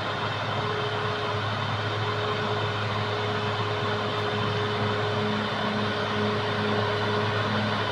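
Caterpillar D6R XL bulldozer's diesel engine running steadily: an even drone with a constant whine over it and a lower tone that drops in and out.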